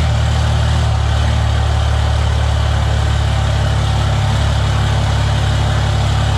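Diesel pickup engine idling steadily just after start-up, breathing through a newly fitted 5-inch exhaust with a stack.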